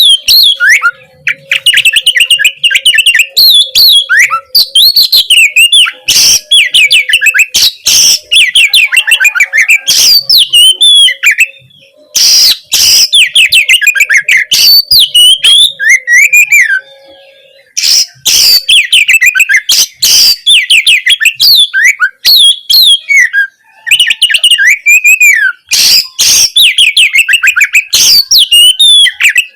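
Oriental magpie-robin (kacer) singing a loud, continuous, varied song: rapid runs of sharp whistled notes and trills, with a few short breaks.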